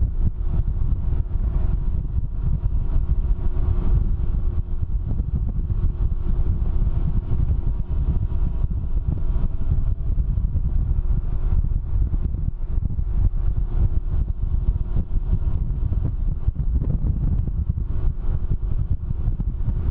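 Wind buffeting the microphone on a Can-Am Ryker ridden at speed, a dense low rumble with the engine's faint steady drone underneath.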